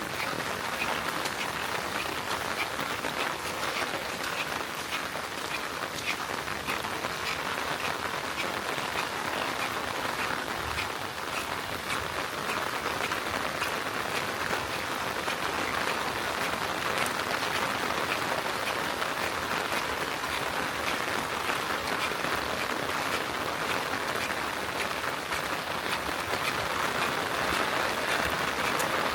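Steady rain falling, a continuous hiss flecked with the ticks of individual drops hitting a surface.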